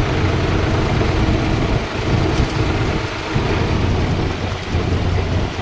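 Tractor engines running with a steady, loud low rumble.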